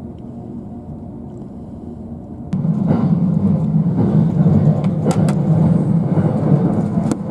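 A low steady rumble, then about two and a half seconds in, a sudden step up to the much louder rumble of a commuter train running at speed, heard from inside the carriage, with a few sharp clicks.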